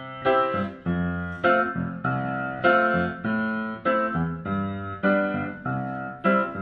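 Piano music: chords struck about every half second, each fading before the next.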